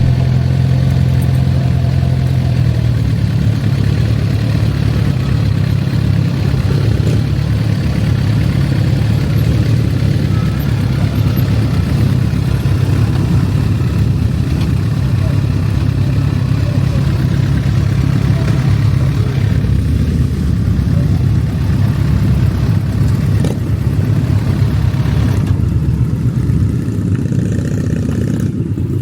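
Motorcycle engine running steadily while riding, its low drone continuous, a little stronger in the first few seconds.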